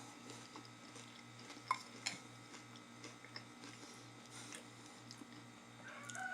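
A few faint clicks of a spoon against a bowl of cereal and milk, two of them clearer about two seconds in, over a low steady hum.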